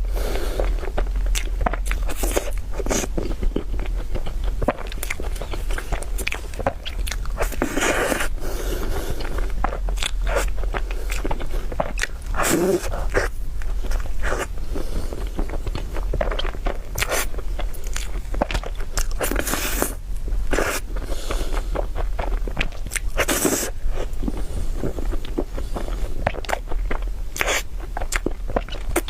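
Close-miked eating of cake: repeated bites and chewing with many irregular sharp, crunchy clicks, over a steady low hum.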